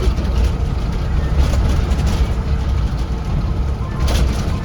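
Interior of a Blue Bird Vision school bus under way: a steady low rumble of the engine and road, with a few faint rattles.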